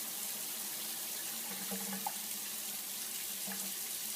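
Steady hissing noise with a faint low hum underneath.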